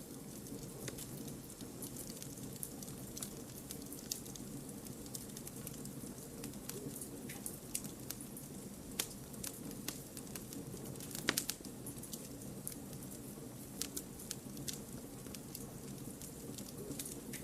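Wood fire burning: a steady low rush of flames with irregular crackles and pops of burning logs, a sharper cluster of pops about eleven seconds in.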